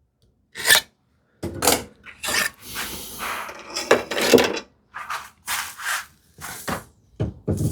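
Hand saw cutting through a small piece of wood: a run of rasping strokes, a few spaced ones at first, then a denser stretch in the middle and quicker strokes again near the end.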